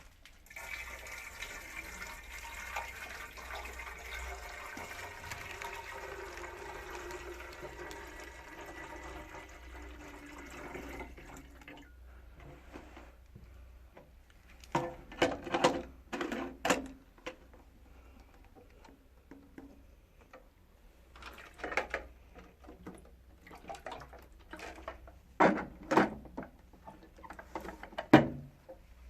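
Water running steadily into a container for about ten seconds, with a faint tone that slowly falls as it fills, as when a humidifier's water tank is filled; then, after a pause, a series of knocks and clunks of plastic parts being handled.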